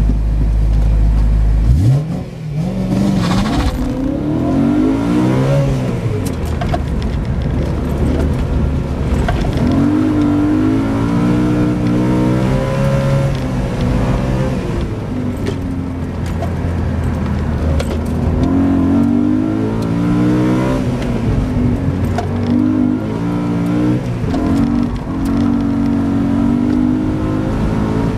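BMW E90 M3's 4.0-litre V8, heard from inside the cabin, launching about two seconds in and then revving up and falling back again and again as the car accelerates and slows through an autocross course.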